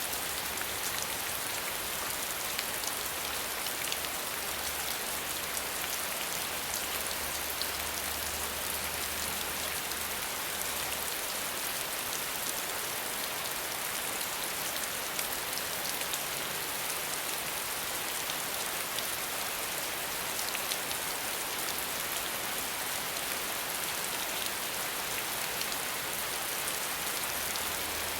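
Steady rain without thunder: an even hiss of falling rain, dotted with fine drop ticks.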